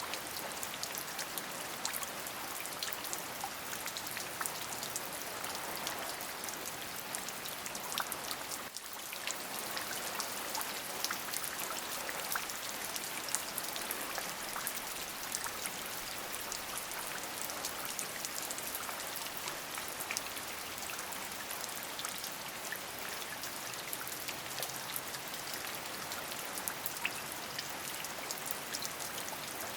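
Steady rain falling, an even hiss scattered with many sharp ticks of individual drops striking a surface. The level dips briefly about nine seconds in, then carries on unchanged.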